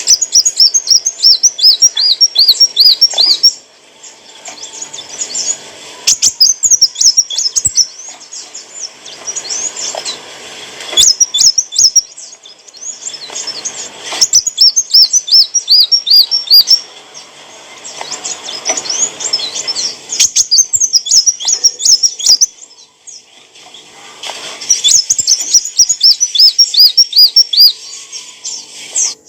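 A sunbird of the kind Indonesian bird-keepers call kolibri wulung sings in bursts of rapid, high, repeated chirping notes a few seconds long, with short pauses between the phrases.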